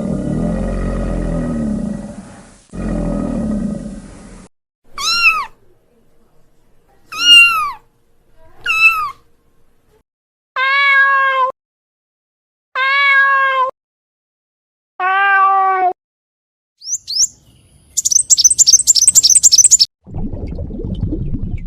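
Domestic cat meowing six times: three short, arching meows followed by three longer, steadier ones. A low rumbling animal sound comes first, and a rapid burst of high chirping near the end.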